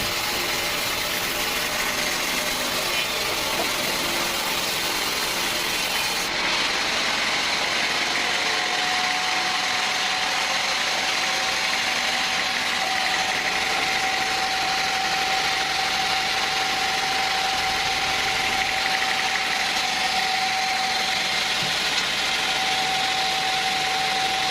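Sawmill machinery running steadily. About seven seconds in a steady high whine joins it and holds to the end.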